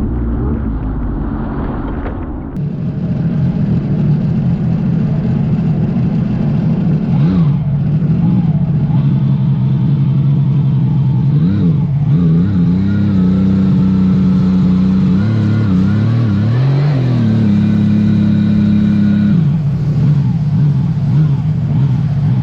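A low rumble for the first two seconds or so, then a Sea-Doo GTS 130 personal watercraft's engine running under way, holding a steady pitch at speed and dipping and climbing again several times as the throttle is eased and reopened.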